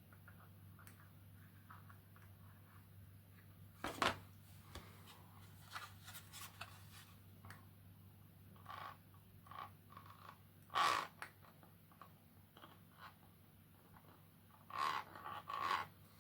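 Hands handling 3D-printed plastic parts and a glue tube: scattered light clicks, taps and scrapes, with louder clatters about four seconds in, about eleven seconds in, and twice near the end.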